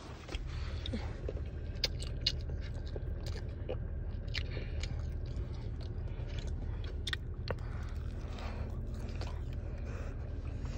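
A person chewing fried chicken nuggets close to the microphone, with scattered crisp crunching crackles. A steady low rumble of the car runs underneath.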